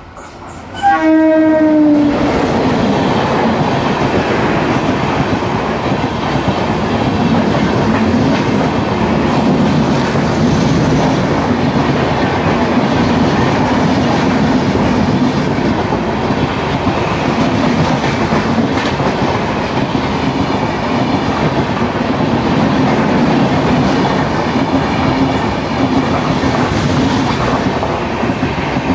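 An Indian Railways electric locomotive sounds one short horn blast about a second in. Its passenger coaches then run past close by, with a loud, steady noise of wheels on rails.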